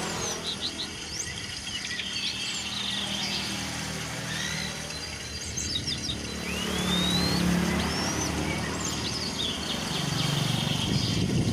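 Songbirds calling: scattered short chirps and rising whistled notes over a steady background noise. A low hum swells up around the middle and again near the end.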